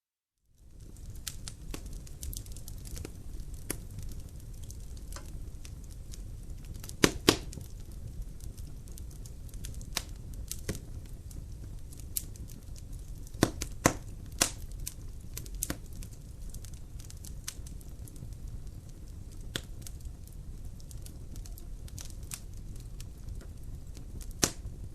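Logs burning in a fireplace: irregular sharp crackles and pops over a low steady rumble of the fire. It starts after a brief silence, with a few louder pops about seven, fourteen and twenty-four seconds in.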